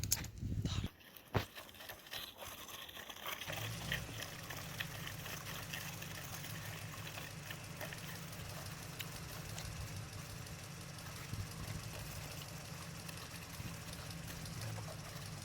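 A few short knocks and handling clicks, then, about three and a half seconds in, a steady low engine-like idling hum with a fast flutter starts and holds.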